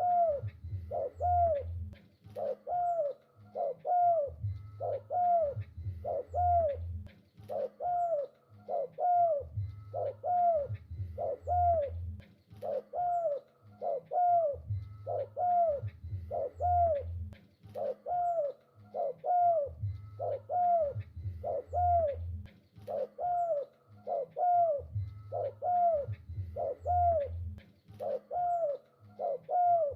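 Spotted dove (tekukur) cooing on and on: short arched notes about two a second, gathered into repeated phrases about every five seconds.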